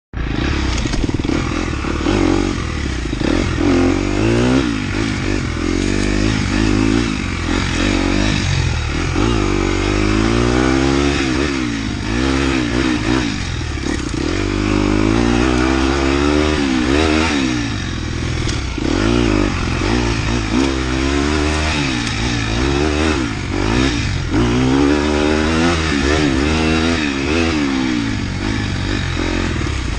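Motorcycle engine being ridden, its revs rising and falling over and over every second or two.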